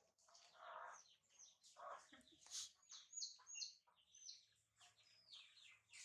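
Faint chirping of small birds: a run of short, high, falling chirps, with a few soft rustles in between.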